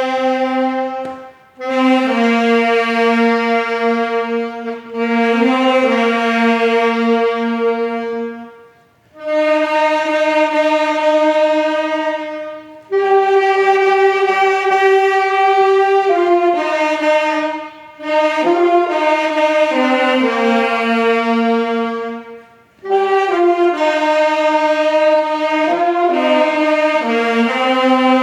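A slow melody played as a single line of long, steady held notes on a wind instrument, in phrases of a few seconds with short breaths between them.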